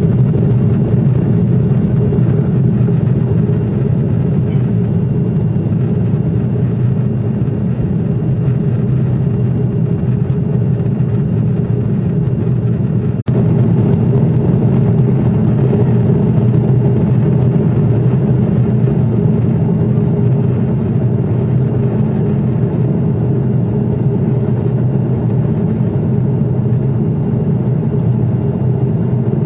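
Jet airliner heard from inside the passenger cabin: a steady, loud rumble of engines and airflow. There is a momentary break about 13 seconds in.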